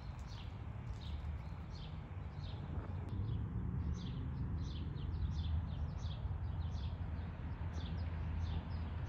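A small bird chirping over and over, short high downward chirps about two or three a second, over a steady low rumble.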